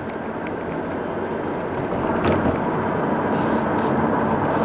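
Highway vehicle noise that grows steadily louder as heavy traffic approaches.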